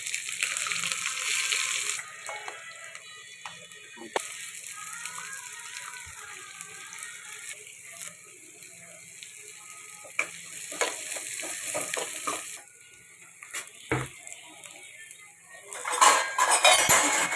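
Chopped green chillies and onion frying in hot oil with peanuts in a pan, a steady sizzle with scattered scrapes and clicks of a metal spoon. The sizzle is loud in the first two seconds, eases off, and grows loudest again near the end as the pan is stirred.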